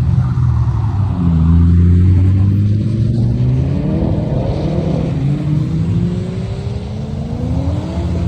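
Car engine accelerating, its note climbing twice as the revs rise, over a deep exhaust rumble.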